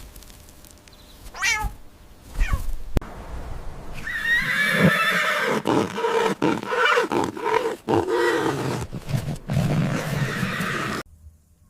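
Animal calls: two short falling squeaks, then a long stretch of loud, wavering calls that cuts off suddenly near the end.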